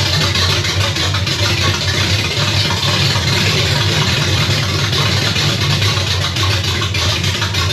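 Chevy 327 small-block V8 idling steadily on open headers with no exhaust system fitted.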